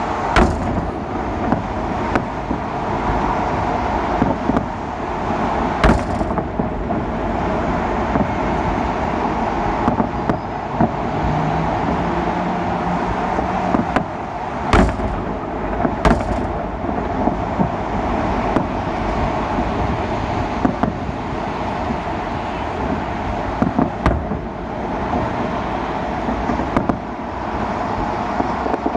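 Salute fireworks going off as scattered sharp bangs, a few seconds apart at irregular intervals, some trailing off in a rumble, the loudest about a quarter of the way through and a pair near the middle. Steady city traffic noise continues underneath.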